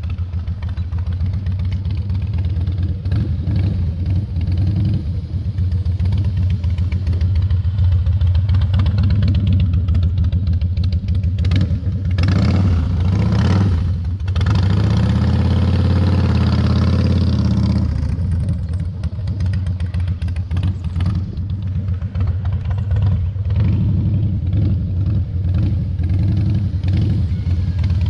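Harley-Davidson V-twin motorcycle engine running at low speed, the throttle easing on and off. A little before halfway it picks up and runs harder for several seconds, then drops back to a lower, steadier note.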